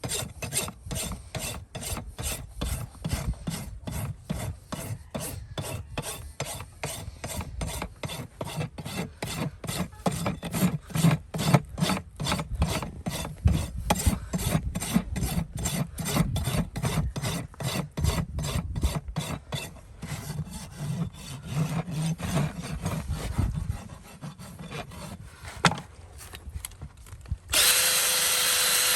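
Farrier's rasp filing a horse's hoof in quick, even strokes, giving way to lighter, irregular rubbing about twenty seconds in. Near the end a power tool starts up with a loud, steady whir.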